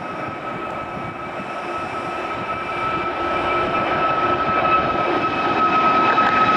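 Jet airliner's engines: a steady high whine over a broad rushing noise, growing steadily louder as the aircraft comes closer.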